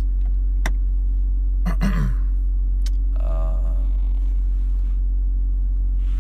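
Car's newly replaced engine running, heard inside the cabin as a steady low drone, a little louder than the old engine but seeming fine. Two sharp clicks fall about a second and three seconds in.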